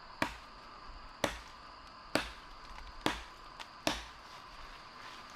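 Machete chopping into wood, five sharp strokes about a second apart.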